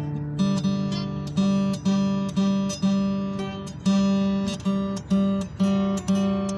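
Acoustic guitar played alone, strummed and picked in a steady rhythm of two to three strokes a second.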